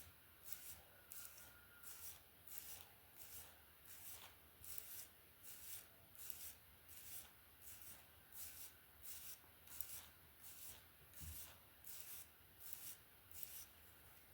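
Hairbrush drawn through hair in even, repeated strokes of about two a second, each a faint, high swish.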